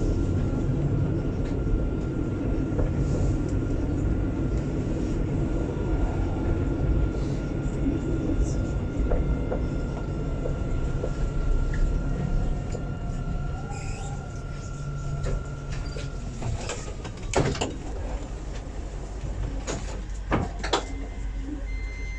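Alstom Citadis 402 tram running, a steady low rumble with a high whine from the drive; about 16 seconds in the whine dips and the running noise drops as it slows. A few sharp clicks follow, and a steady beep starts near the end.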